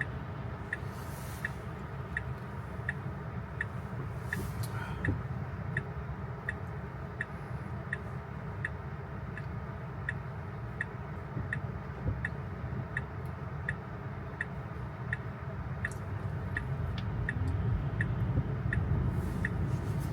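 Tesla turn-signal indicator ticking at an even pace, about three ticks every two seconds, over the low rumble of tyres on a wet road heard inside the cabin.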